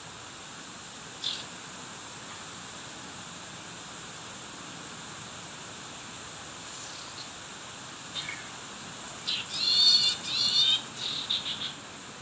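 A small bird calling over a steady hiss. There is one short, high call about a second in. Near the end comes a cluster of harsh, pitched calls: two longer ones of about a second each, then a few quick chips.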